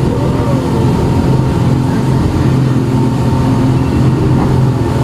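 Speedboat engine running steadily at speed, a constant drone with no change in pitch.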